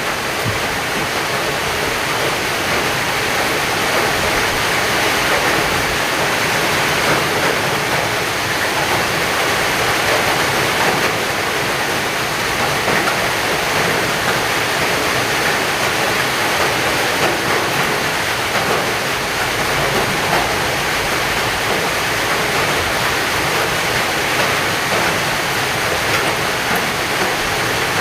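Heavy rain pouring steadily, a dense even hiss of water.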